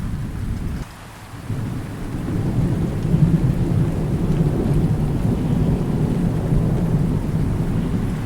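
Thunder rumbling low over steady rain. The rumble drops away suddenly about a second in, then swells back up within a couple of seconds and rolls on.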